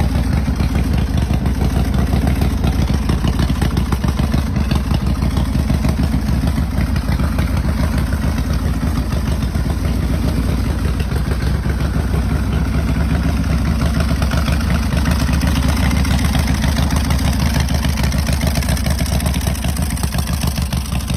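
2005 Titan Sidewinder chopper's V-twin engine running steadily and loud, with a fast, even exhaust pulse and no clear revving.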